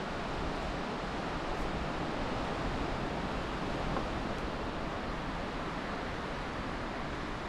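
Steady rushing of strong wind, an even noise that holds at one level without separate gusts standing out.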